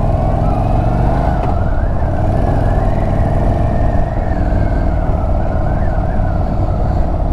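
Indian Chief Bobber Dark Horse's V-twin engine running steadily under way at a fairly even pitch, with road and wind rumble.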